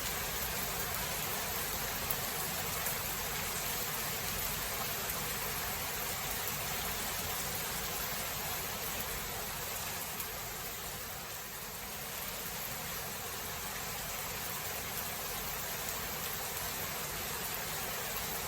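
Steady heavy rain, an even hiss with a few faint drop ticks, easing slightly about eleven seconds in; no thunder clap stands out.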